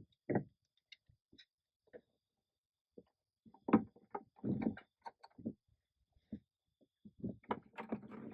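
A string of irregular knocks and clunks, like things being handled or bumped in a small room, busiest a few seconds in and again near the end.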